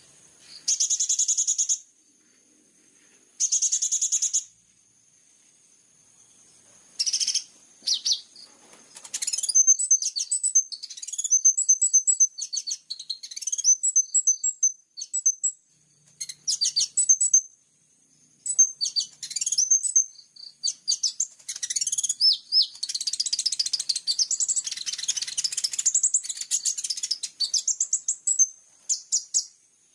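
High-pitched songbird song used as a training recording for kolibri ninja sunbirds: two short buzzy trills in the first few seconds, a pause, then from about seven seconds a long run of rapid chirps, twitters and trills that grows densest past the middle and stops just before the end.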